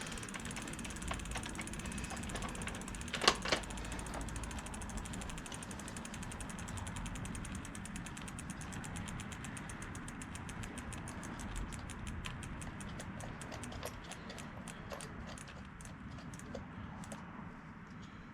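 E-bike rear wheel freewheeling after being spun by hand, its hub pawls ticking quickly and then more and more slowly as the wheel coasts down. There is one sharp knock about three seconds in.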